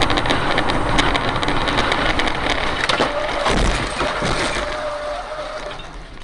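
An aircraft crashing: a loud, dense rumbling noise full of sharp cracks and crunches as the airframe strikes the ground and breaks up, fading toward the end.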